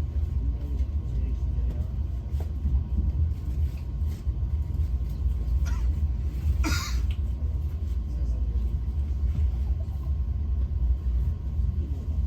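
Steady low rumble of a passenger train in motion, heard from inside the carriage. About six and a half seconds in there is a brief hiss that covers the high end.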